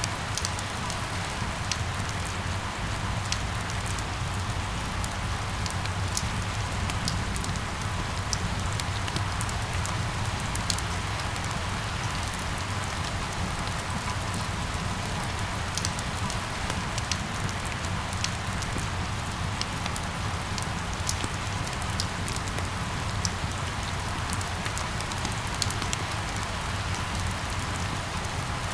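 Steady rain falling, with scattered sharp drops ticking close by over an even hiss and a steady low rumble underneath.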